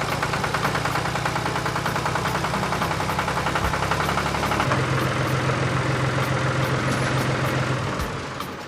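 A small motor on a DIY model tractor running steadily, with a fast, even rattle over a low hum. The hum drops in pitch about halfway through and dies away near the end.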